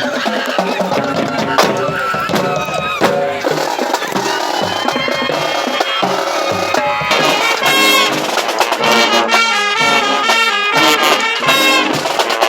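Brass and percussion music: trumpets and trombones playing over drums, in the manner of a marching band.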